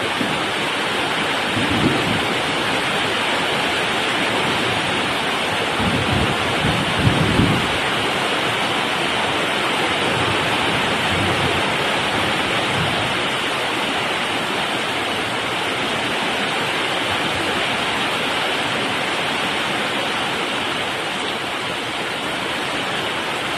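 Heavy rain pouring down steadily in a summer thunderstorm, with low rolls of thunder a few times, the strongest about six to seven seconds in.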